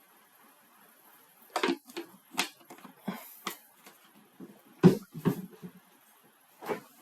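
A string of irregular clicks and knocks, about a dozen over five seconds after a quiet start, the loudest a dull thump about five seconds in.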